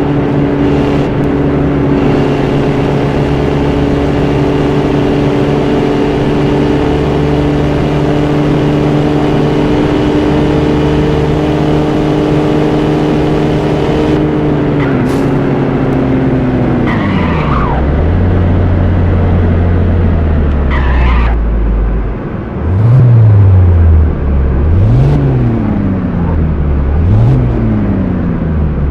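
BMW S62 V8 from an E39 M5, swapped into an E34, held at steady high revs for about fourteen seconds. The revs then fall away to a low idle, followed by three quick throttle blips that rise and fall.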